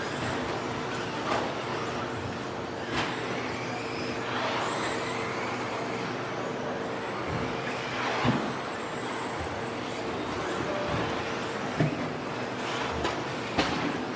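Electric 1/10-scale 2WD stadium trucks with 13.5-turn brushless motors racing on a dirt track: motors whining up and down in pitch as they accelerate and brake, with several sharp knocks, the loudest a little past eight seconds in.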